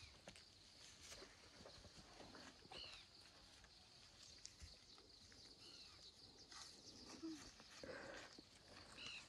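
Near silence with a faint bird call, a short arching chirp repeated three times about three seconds apart, and faint footsteps on a dirt path.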